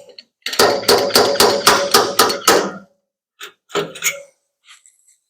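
A body hammer rapping a steel truck-bed panel, about eight quick ringing strikes at roughly four a second, then a few single knocks: knocking down a ridge while the dent is pulled out.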